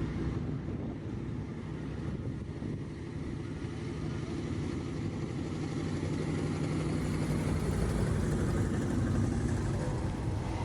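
A car engine running steadily, getting a little louder after about four seconds.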